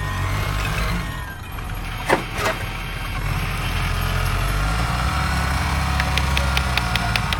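Toy construction vehicle's engine sound running with a steady low drone. There are two sharp knocks a little after two seconds, and from about six seconds a rapid run of evenly spaced ticks, several a second.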